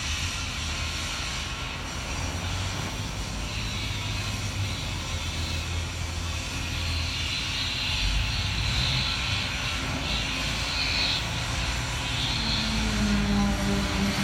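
John Deere tractor engine running steadily under load, a low drone with a hissing noise above it. Near the end a steady humming tone joins in and the sound gets a little louder.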